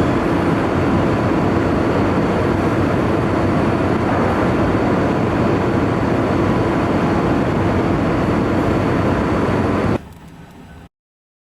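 Steady engine rumble with a constant hum, typical of a vehicle or vessel under way. About ten seconds in it cuts off abruptly, leaving a brief quieter stretch and then dead silence.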